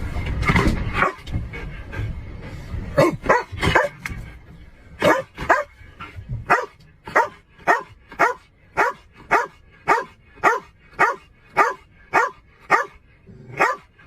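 A dog barking over and over: a few scattered barks at first, then a steady run of about two barks a second through the second half.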